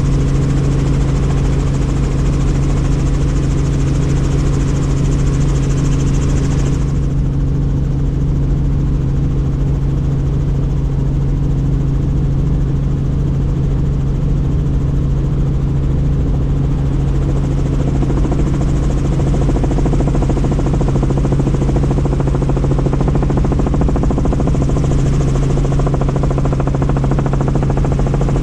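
Helicopter in flight heard from on board with the doors off: a loud, steady drone of rotor and engine with a strong low hum under a rushing wind hiss. The hiss drops away about seven seconds in.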